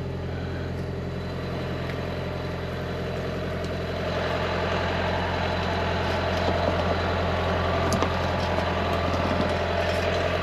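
An engine idling steadily with a low hum, getting a little louder about four seconds in.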